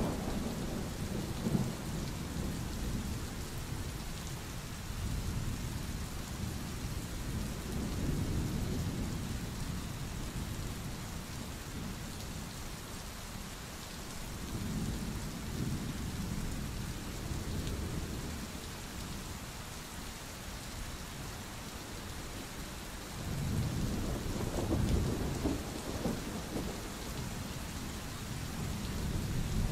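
Steady rain with rolling thunder: deep rumbles swell and fade several times, about a third of the way in, near the middle, and strongest about four-fifths of the way through.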